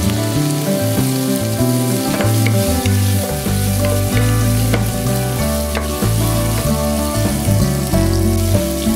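Shrimp and sliced garlic sizzling steadily in hot olive oil in a frying pan, stirred with a wooden spatula that gives a few light clicks against the pan around the middle. Background music with sustained notes plays underneath.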